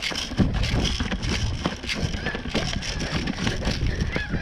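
Footsteps crunching and rustling through dry brush and leaves in an irregular stream of crackles over a low rumble.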